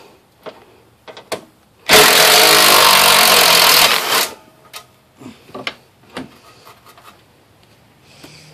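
Cordless DeWalt driver with a socket running for about two seconds, backing a bolt out of the car's radiator support. A few light clicks and knocks follow as the bolt and wiring are handled.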